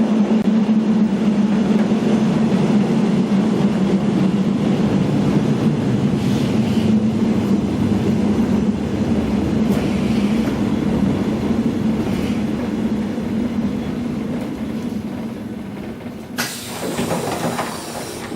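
Keihan Ishiyama-Sakamoto Line 260-series train heard from on board, running with a steady hum and rail noise that fades as it slows. A burst of air hiss comes in near the end.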